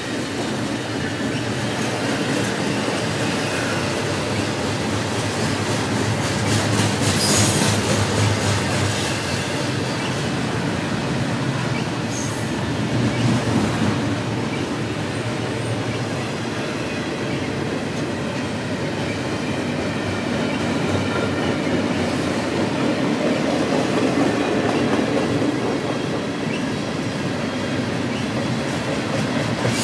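Double-stack intermodal train's container-laden well cars rolling past, a steady noise of steel wheels on the rails with a few louder clanks and a faint wheel squeal.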